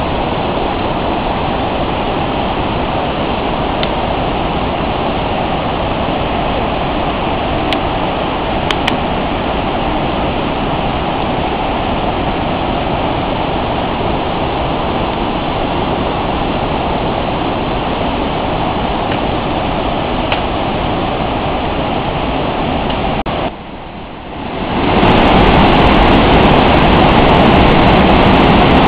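Steady roar of falling water from a jungle waterfall. About 23 seconds in it briefly drops away, then comes back louder.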